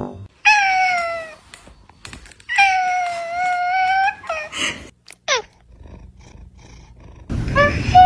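A cat meowing: two long, drawn-out meows, then a short meow and a quick falling cry. Near the end louder background noise comes in with one more short meow.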